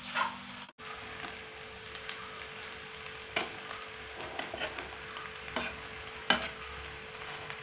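Macaroni and shredded cabbage sizzling in a frying pan while a metal spatula stirs and tosses it, with a few sharp scrapes and clicks of the spatula against the pan. The sound drops out for a moment under a second in.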